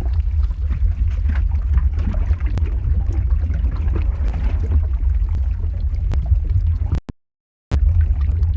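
Lava-flow ambience sound effect: a heavy, steady low rumble with scattered crackles and pops. It cuts out to silence for under a second about seven seconds in.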